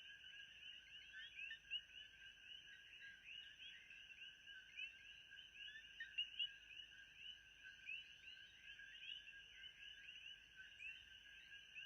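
Faint background ambience track: a continuous chorus of many short overlapping chirps, with a thin steady high tone above it.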